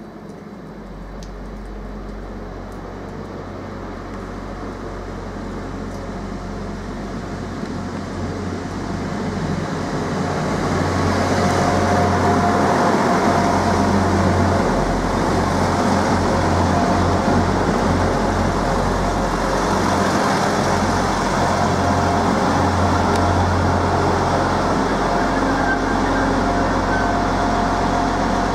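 Diesel passenger train approaching out of a tunnel and passing close by: the engine and wheel noise grow steadily louder for the first ten seconds or so, then hold at a steady loud run-by.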